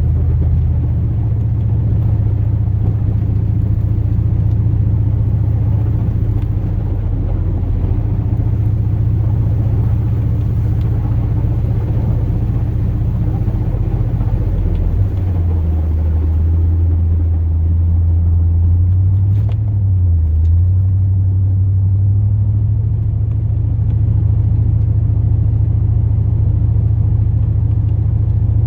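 A 2002 Chevrolet Silverado's 8.1-litre big-block gas V8 running as the truck drives, a steady low drone. Its pitch drops about halfway through, wavers, and comes back up a few seconds later.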